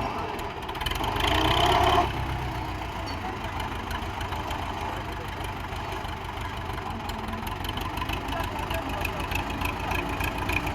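Belarus MTZ-50 tractor's four-cylinder diesel engine running with a steady, knocking beat. A louder stretch rises from about a second in and cuts off sharply at about two seconds, then the engine settles back to its even run.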